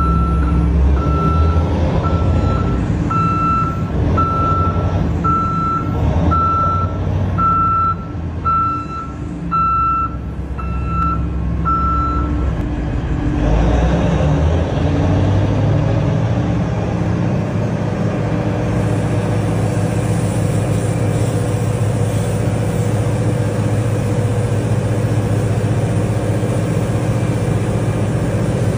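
Komatsu HD785-7 mining dump truck reversing: its reversing alarm beeps evenly, about one and a half beeps a second, over the running diesel engine, and stops about twelve seconds in. About a second later the engine note rises and then runs on steadily as the truck moves off.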